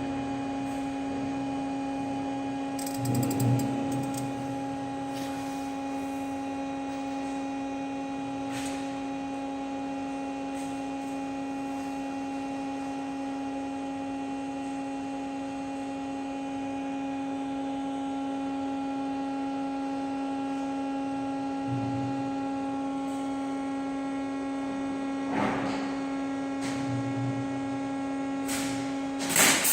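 Running machinery hums steadily on one fixed pitch with a stack of overtones. A few brief clatters come over it, about three seconds in, near 25 seconds, and loudest right at the end.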